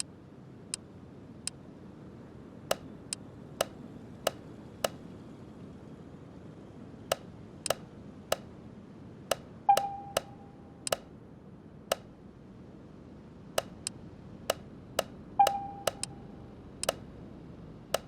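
Hard parts and tools being handled during engine work: irregular sharp clicks and taps, about two dozen in all, two of them ringing briefly like struck metal. A faint steady room hiss lies underneath.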